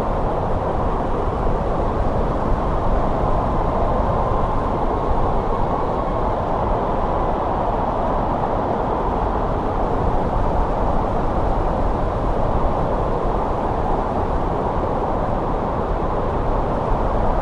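Steady snowstorm wind: a continuous, even rushing noise, strongest in the middle range over a low rumble, with no gusts or breaks.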